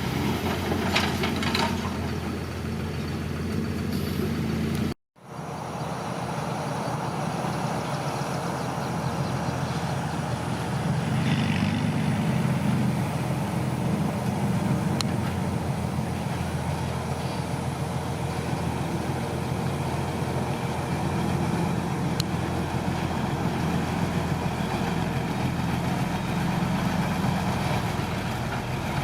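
Heavy diesel earthmoving machinery running steadily, with a brief total dropout about five seconds in.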